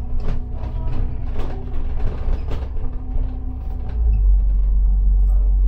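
Bus heard from on board: a low engine rumble with rattles and creaks from the body and fittings. About four seconds in the engine rumble grows louder and steadier.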